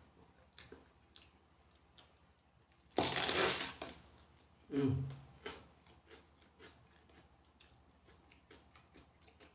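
A loud crunchy bite into a whole raw vegetable from the sambal-dipped lalapan, about three seconds in, followed by a shorter sound about a second later and quiet chewing with small wet clicks.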